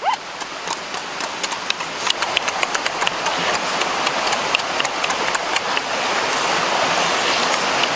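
Rapid, irregular wet clicks and smacks of someone chewing food with an open mouth, over the steady rushing of a stream.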